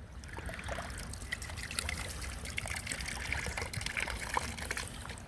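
Shallow stream water trickling and splashing with small clicks as the water is disturbed, starting about half a second in.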